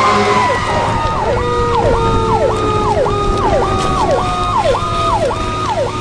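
Emergency vehicle sirens: an electronic siren in a fast yelp, sweeping up and down about twice a second, over another siren's long wail that slowly winds down in pitch. A steady low engine rumble runs underneath.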